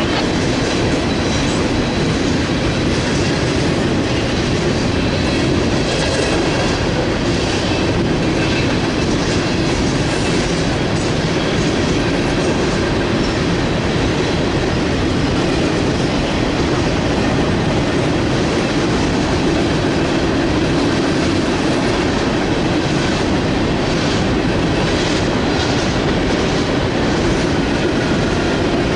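Freight train cars rolling past: a steady, loud rumble of steel wheels on the rails, with clicks here and there as the wheels pass over the rail joints.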